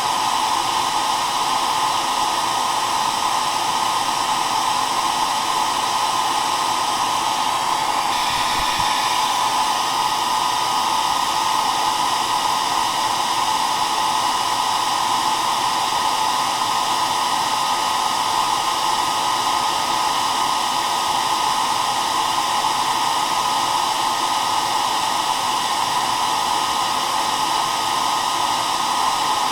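Hair dryer running steadily, an even blowing hiss with a strong band in the middle range and faint steady whine tones above it.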